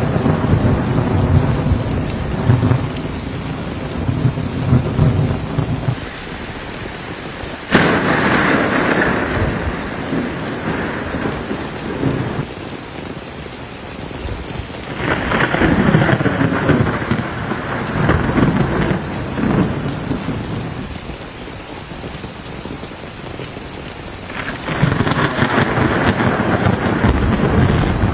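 Thunderstorm: steady heavy rain with rolling thunder, three loud peals breaking about 8, 15 and 25 seconds in.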